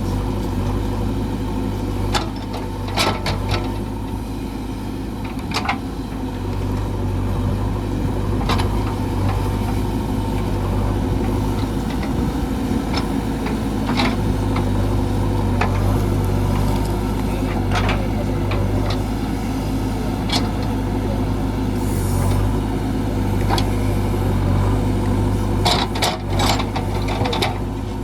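JCB 3DX backhoe loader's diesel engine running steadily under work, with several sharp knocks now and then.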